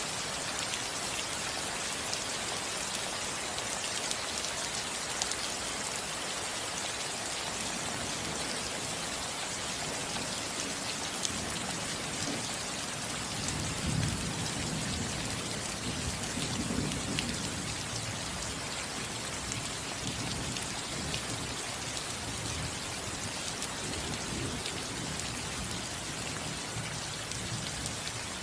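Steady rain falling on a roof, with a low rumble of distant thunder that builds about a third of the way in, is strongest around the middle and dies away near the end.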